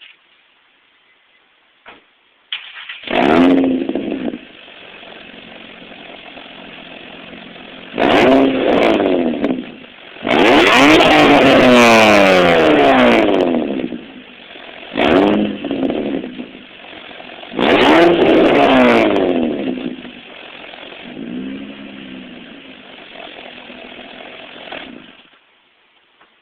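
Nissan 350Z's 3.5-litre V6 through a Megan Racing true dual exhaust with test pipes: started about two and a half seconds in, idling, and revved five or six times, the longest rev held for about three seconds, then shut off near the end.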